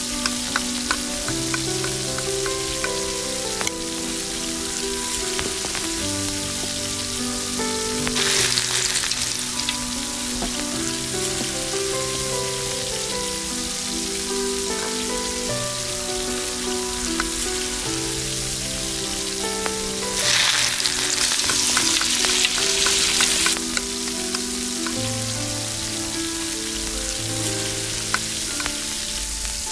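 Chopped onion, peppers and tomatoes sizzling in oil in a miniature steel pot, with light clinks of a tiny metal spoon stirring against the pot. The sizzle swells louder twice, around a third of the way in and again about two thirds in, over soft background music.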